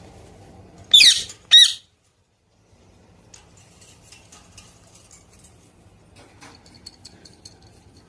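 Pet parrot giving two loud, harsh squawks in quick succession about a second in, followed by a string of faint, soft chirps and quick high ticks.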